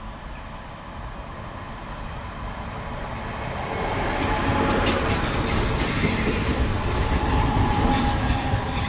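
A train rolling into or through a station, growing louder about three seconds in, with its wheels clacking over rail joints.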